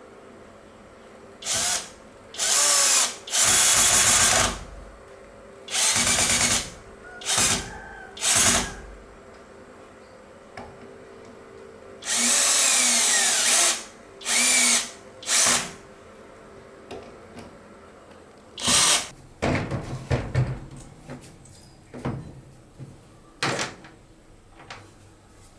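Electric power drill run in about ten short bursts of a fraction of a second to a second and a half, its motor speeding up and slowing down in each. Lighter knocks and clicks follow near the end.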